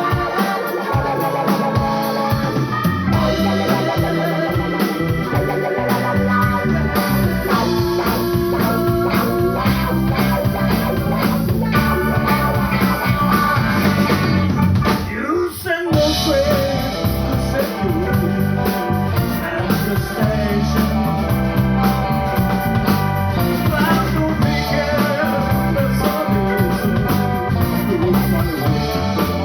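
Live blues-rock band playing with organ and electric guitar over bass and drums. The band briefly drops out about halfway through, then comes straight back in.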